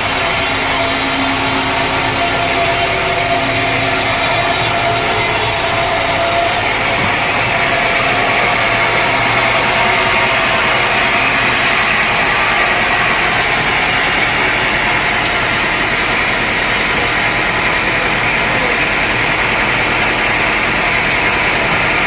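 Sawmill saw running steadily through dense teak wood, a continuous grinding hiss of the cut with an abrupt change in tone about six and a half seconds in.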